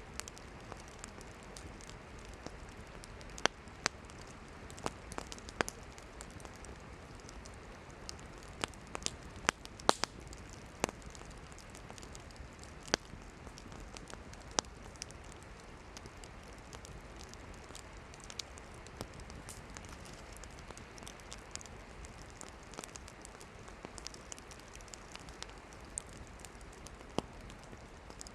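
Wood campfire burning: a steady hiss with sharp crackles and pops from the burning firewood, coming thickly in the first half and more sparsely later.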